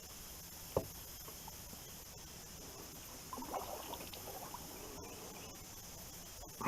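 Light water splashing and trickling beside a small plastic kayak as a hooked fish is worked free, with a single sharp knock about a second in.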